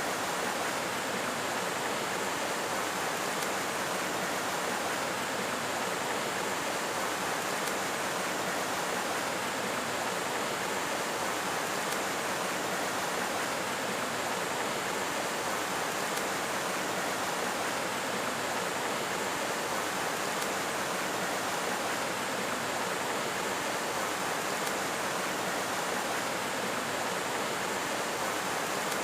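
Steady, even rushing noise of running water, unchanging throughout.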